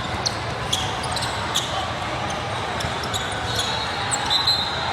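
Basketball game in a gym: a ball bouncing on the court in scattered knocks over a steady murmur of voices, with a few high shoe squeaks near the end.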